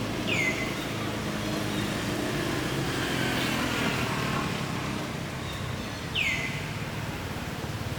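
Two short, high chirping calls that fall in pitch, one near the start and one about six seconds later, over steady low background noise.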